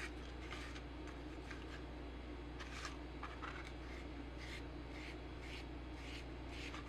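Short, irregular scratchy strokes of a glue brush working Barge contact cement, over a steady low hum.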